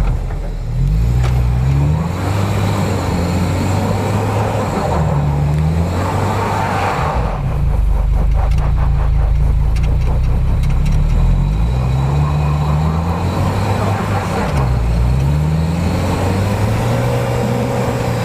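Suzuki Escudo's engine revving hard on a snowy uphill climb, its pitch rising and falling again and again as the driver works the throttle. There is a rapid clattering stretch about a third of the way in.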